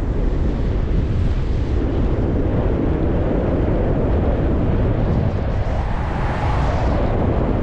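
Wind buffeting the microphone of a moving bicycle, a steady low rumble, with a louder rushing swell about six seconds in.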